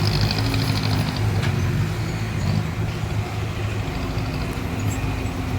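Bulldozer's diesel engine running steadily under work, with a brief high-pitched rattle in the first second.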